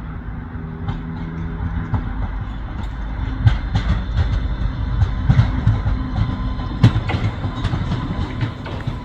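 Island Line Class 484 electric train pulling into the station, with a low rumble and wheels clicking and knocking over rail joints that grow busier from about three seconds in.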